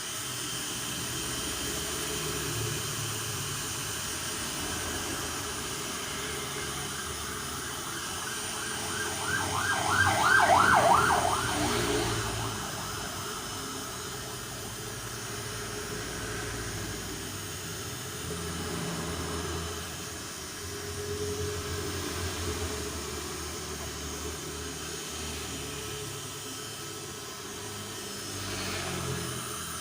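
Electric heat gun blowing steadily, softening the old headlamp sealant on the lens and housing so they can be rejoined. About ten seconds in there is a brief, louder, rapid rasping.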